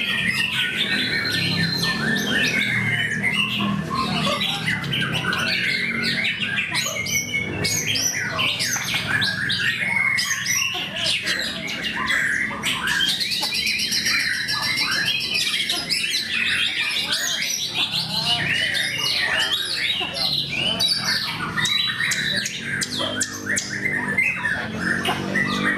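White-rumped shama (murai batu) singing a long, continuous, varied song of rapid short notes and whistles without a break.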